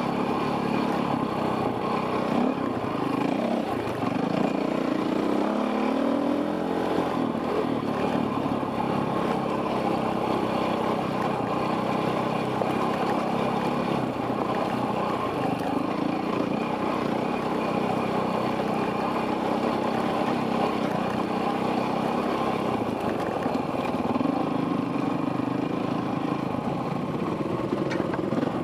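Enduro dirt bike engine heard from the rider's helmet camera on a rough trail, running steadily and rising and falling in pitch with the throttle, most clearly a few seconds in and again near the end.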